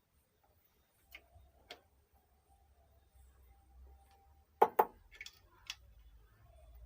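Workbench handling sounds: two light clicks, then a loud double knock a little past the middle and a quick cluster of sharper clicks, over a faint low hum.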